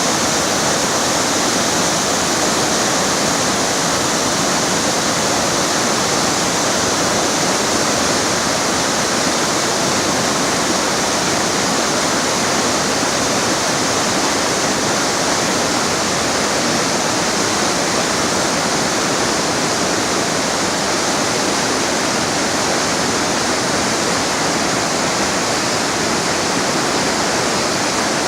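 River water rushing: a steady, even rush with no breaks.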